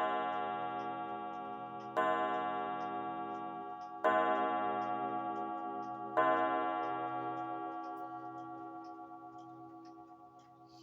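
Korean clock gong fixed to a clock gong base, struck four times about two seconds apart. Each stroke rings with many tones together and a slow pulsing shimmer, and the last is left to ring out and fade slowly.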